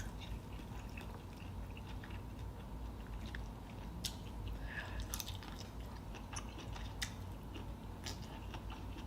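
Faint close-up chewing of seafood, with a few short sharp clicks scattered through it and a low steady hum underneath.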